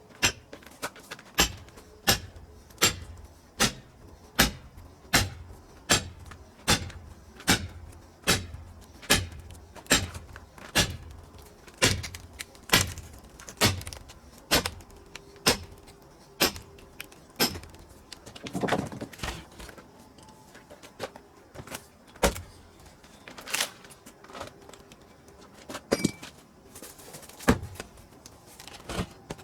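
Rapid, evenly spaced blows striking pine firewood, about four every three seconds for roughly the first seventeen seconds. A longer, rougher sound follows at about eighteen seconds, then a few scattered single knocks.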